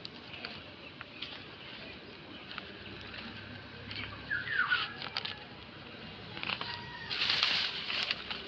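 Rustling and crinkling of old plastic being pulled out of soil and grass, with scattered small clicks and a louder burst of rustling near the end. A short chirping call comes about four and a half seconds in.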